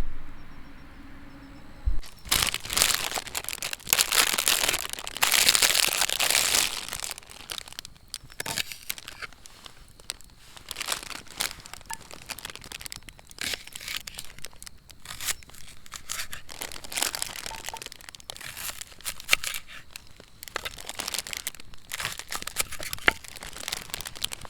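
Irregular rustling and crinkling, loudest and densest for a few seconds after it starts, then continuing as scattered crackles.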